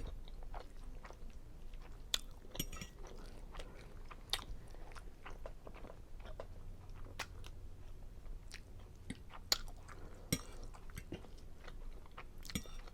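Close-miked chewing of a mouthful of seafood linguine Alfredo: irregular wet mouth clicks and smacks, a few at a time.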